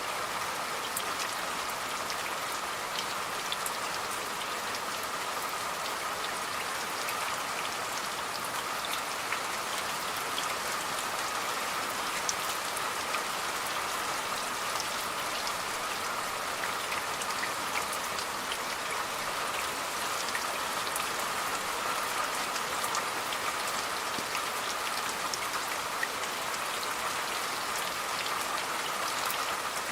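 Steady rain falling, with a dense patter of individual drops ticking.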